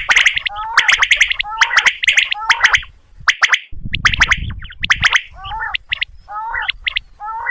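Quail calling, the batair call played as a hunting lure: rapid, repeated short sharp notes about twice a second, with a brief pause about three seconds in.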